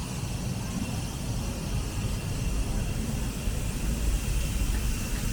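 Steady low rumble of outdoor city ambience, slowly getting louder toward the end.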